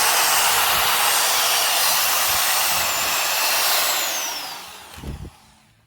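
A power tool cutting out an old leaf spring bushing sleeve runs steadily with a high whine for about four seconds, then is let off and winds down, its whine falling. A short low knock follows about five seconds in.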